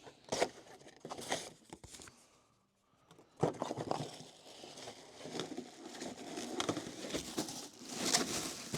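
Packaging being torn open and unwrapped: crinkling and tearing with small knocks of handling, a short pause of near silence about two seconds in, then steady rustling and crinkling.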